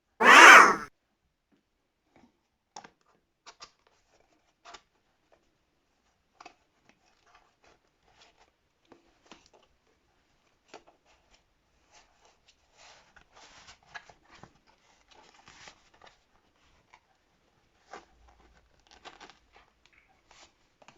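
One loud, brief noise at the very start, then scattered light clicks and rustles of toy packaging and small plastic doll accessories being handled and cut open.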